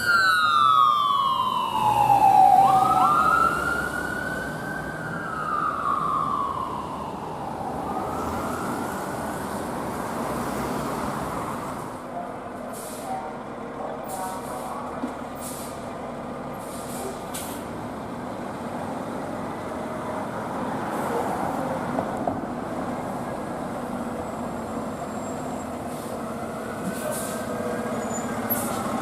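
An emergency vehicle's siren on wail, sweeping down, up and down again over the first several seconds and then fading away. Steady traffic and heavy-vehicle engine noise continues after it.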